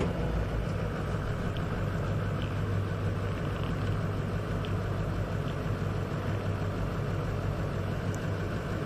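Ford 6.0L Power Stroke V8 turbo-diesel running at a steady idle after a hard start.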